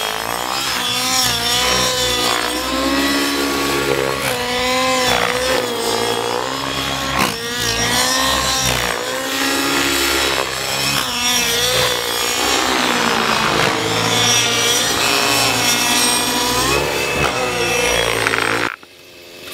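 Align T-Rex 700N radio-controlled helicopter in flight: its nitro engine and rotors buzz, the pitch rising and falling again and again. The sound cuts off suddenly near the end.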